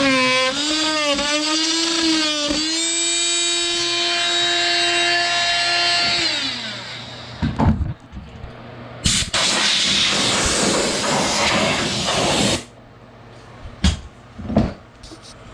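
Power drill motor whining, its pitch dipping again and again as it loads up, likely driving screws into the floor, then running steadily and winding down about seven seconds in. A few knocks and several seconds of hissing noise follow.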